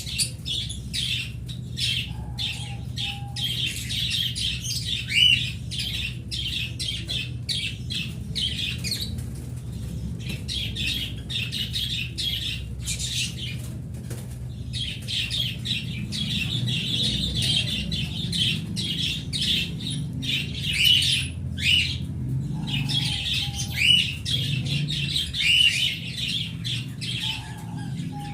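A flock of small cage birds chirping and chattering together in a dense, continuous twitter, with a few louder calls standing out. A low steady hum runs underneath.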